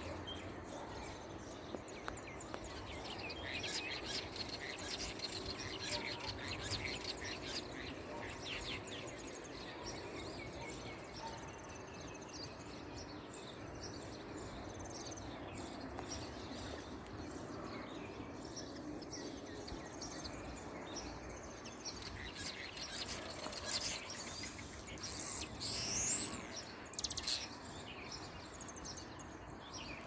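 Small songbirds chirping and twittering in bursts of short high notes, busiest in two stretches, the later one with a quick rising whistle, over a steady outdoor background hum.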